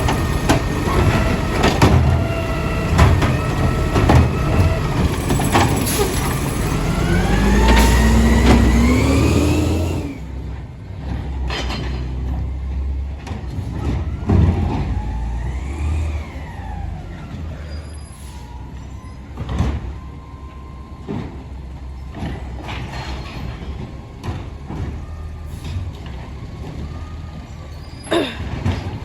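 Garbage truck at work: its diesel engine runs loud and revs up, the pitch climbing, for about ten seconds. The sound then drops suddenly to a quieter idle with scattered clanks and knocks and a brief whine that rises and falls.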